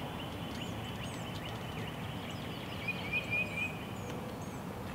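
Songbirds chirping over steady outdoor background noise, with a louder warbling phrase about three seconds in.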